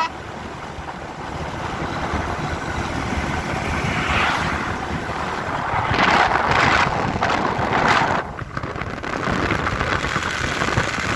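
Wind rushing over the microphone with vehicle noise while riding a bike. It swells in gusts near the middle and drops briefly about two-thirds of the way in.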